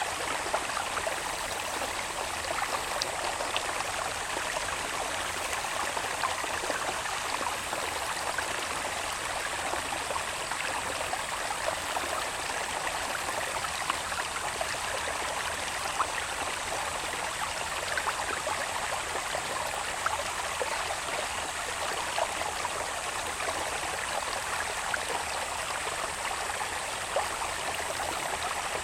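Water babbling steadily along a small irrigation channel, full of tiny trickling splashes. A steady high insect drone runs beneath it.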